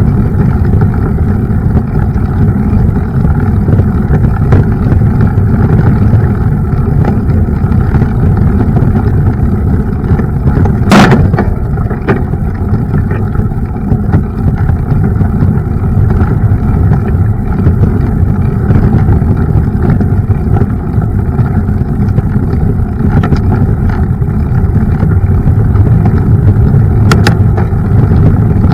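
Mountain bike riding on an off-road trail: a steady low rumble of wind on the microphone and tyres on the path, with small rattles throughout. There is a sharp knock about eleven seconds in and a fainter one near the end.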